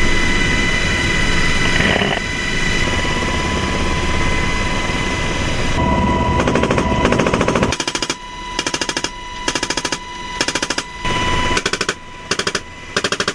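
M240H machine gun firing from a helicopter in rapid automatic bursts, over steady helicopter noise with a whine. The first part is a long, dense stretch of sound. From about eight seconds in the gun fires several short bursts with brief pauses between them.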